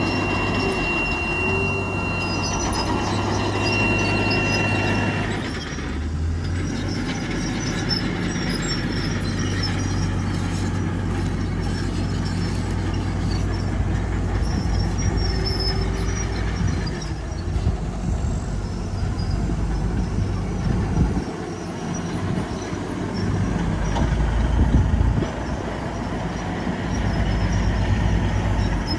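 Komatsu bulldozer's diesel engine running steadily with the metallic squeal and clank of its steel tracks. A high, steady squeal lasts about the first five seconds, then gives way to a rougher rumble.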